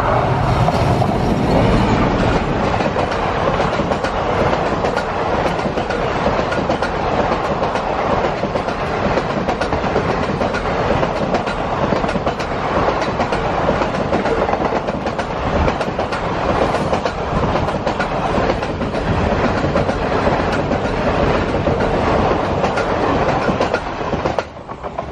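A train passing close by at speed, a long, loud, steady rush of carriages and wheels on the rails. It cuts off suddenly near the end as the last carriage clears.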